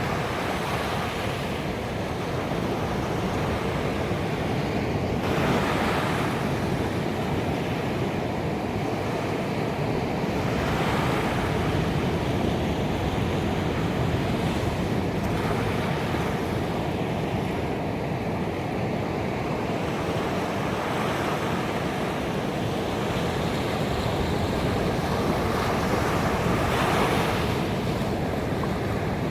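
Ocean waves breaking on a beach: a steady wash of surf, with a louder wave crashing about every five seconds.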